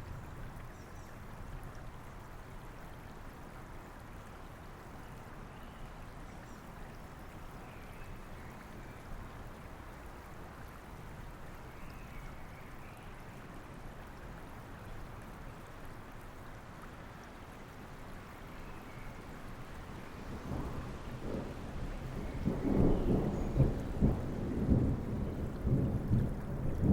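Steady rain with a low rumbling wash. About twenty seconds in, a roll of thunder builds, rumbling and crackling irregularly and loudest near the end.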